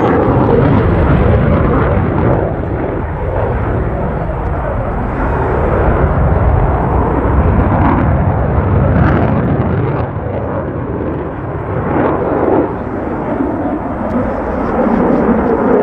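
F-16 fighter jet engine running loud during a demo pass: a continuous noisy roar that swells and ebbs over the seconds.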